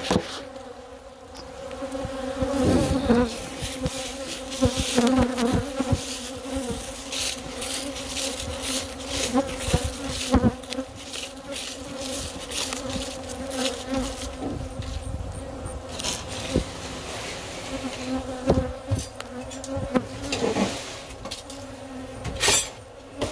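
Agitated honey bees buzzing close around, a steady droning hum that rises and falls a little as they fly past, set off by the hive having just been taken apart. Many sharp clicks and taps come and go throughout.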